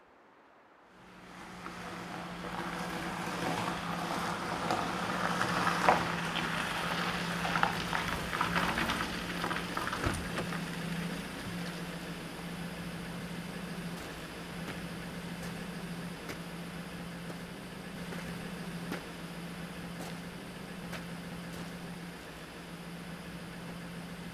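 A car engine running. Its sound swells over the first several seconds with a few clicks, then settles into a steady idling hum.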